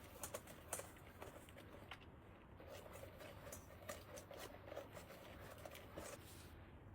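Faint handling noises: scattered small clicks and soft rustling of things being moved about, stopping about six and a half seconds in.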